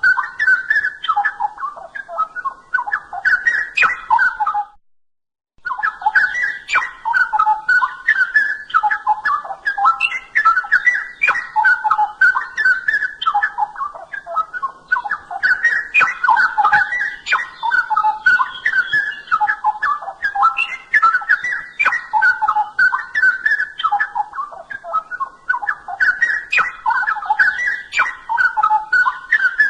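Straw-headed bulbul (cucak rowo) singing a continuous stream of quick, rich warbled phrases, broken by a sudden silence of about a second near five seconds in.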